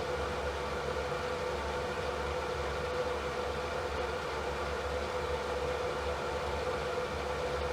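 Steady electric fan noise: an even rushing hiss with a constant hum and a faint steady tone, unchanging throughout.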